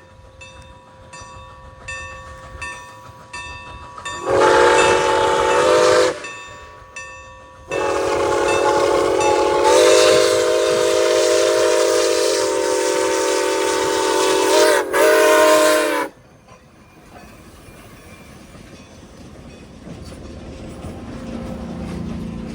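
Locomotive multi-tone air horn: a blast of about two seconds, then a long blast of about eight seconds with a brief dip near its end, over evenly spaced strikes of a grade crossing bell. The rumble of the approaching train rises near the end.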